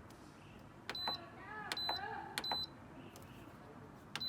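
Whirlpool washing machine's control panel clicking as its buttons are pressed, each press answered by a short, high electronic beep, four in all. This is the machine's error beeping: it refuses to fill or spin, a fault later traced to a stuck unbalance safety-switch lever.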